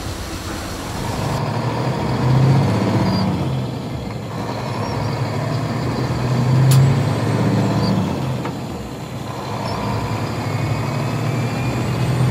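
Vehicle engine sound effect: a low engine note swelling and fading about every four seconds, with a brief click near the middle.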